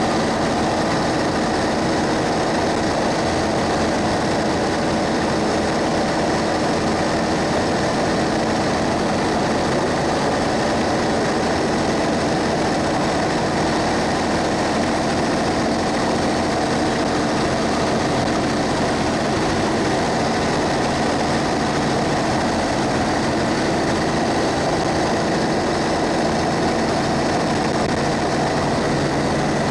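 Cummins ISB 6.7-litre diesel engine of a Thomas Saf-T-Liner C2 school bus running steadily, heard inside the bus, over a steady hiss of road and rain noise.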